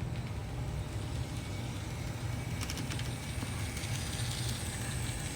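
Two DCC model steam tank locomotives running forward on track, with a steady low motor hum. A few light clicks come about two and a half to three seconds in.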